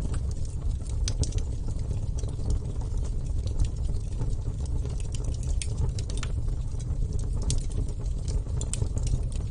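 Wood fire burning: a steady low rumble from the flames with irregular sharp crackles and pops from the burning wood.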